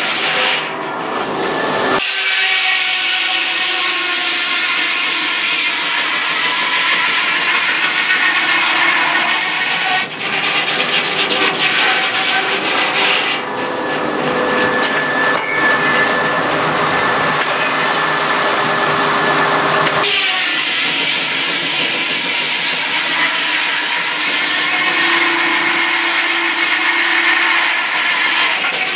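Sawmill saw cutting through wood, a loud steady whine and rush that changes abruptly several times.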